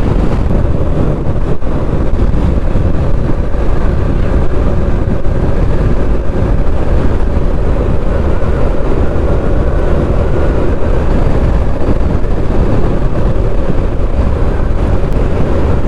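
Steady wind rush over the microphone mixed with the running of a Suzuki GSX1250FA inline-four motorcycle cruising at a steady speed, with a heavy low rumble throughout.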